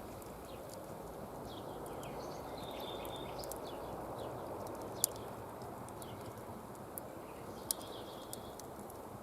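Campfire burning, with scattered crackles and two sharp pops of the burning wood, one about halfway through and one near the end.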